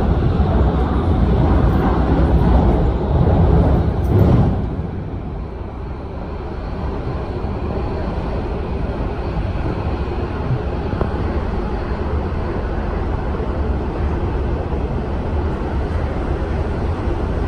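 Running noise of an MTR West Rail Line train at speed, heard from inside the carriage at the door: a steady rumble of wheels on rail with a hiss over it. It is loud for the first four and a half seconds, then eases to a steadier, slightly quieter run. The train is passing through a station without stopping.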